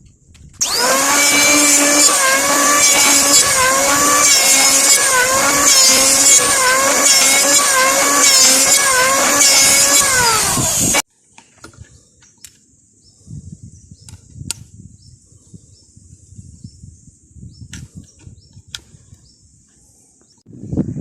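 Electric power tool cutting wood, its motor whine dipping in pitch under load about once a second, stopping abruptly about eleven seconds in. Afterwards a faint steady insect chirr with a few light taps, and a short knock at the end.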